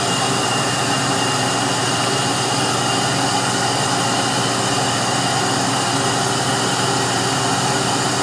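Steady rush of compressed air blowing through a prototype cylinder head's angled intake passages into a simulated cylinder, swirling the rice inside; an even, unbroken hiss.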